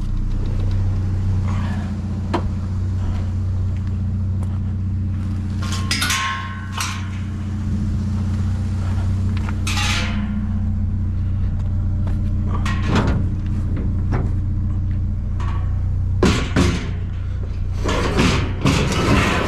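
Small pickup truck's engine running steadily while driving, heard from inside the cab as a low drone, with a few short rattles or knocks and a louder clatter near the end.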